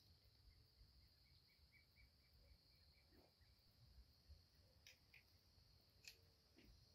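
Near silence: faint outdoor ambience with a steady high-pitched hiss and a few faint ticks and clicks.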